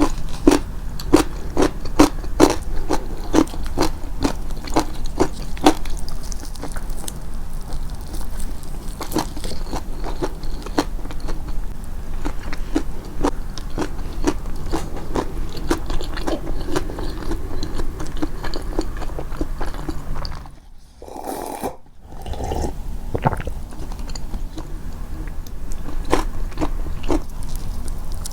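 Close-miked chewing of crunchy food: a crisp crunch about twice a second for the first several seconds, then softer chewing, a brief drop-out about two-thirds of the way through, and a few more crunches near the end.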